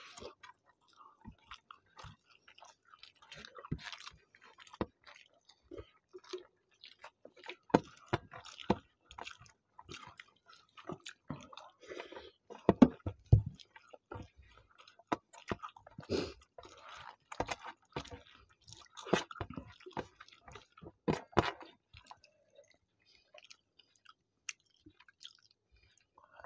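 Close chewing and wet mouth sounds of people eating rice and chicken curry by hand, in irregular clusters that thin out near the end.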